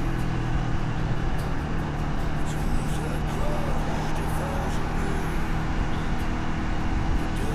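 125cc custom motorcycle engine running steadily on the move in city traffic, under a steady rush of road and wind noise.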